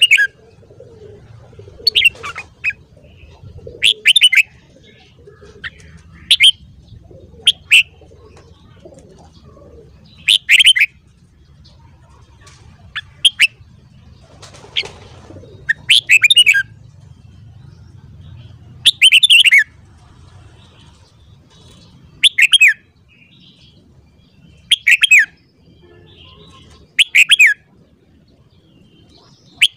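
Red-whiskered bulbul singing short, loud phrases, one about every two to three seconds, over a faint low hum.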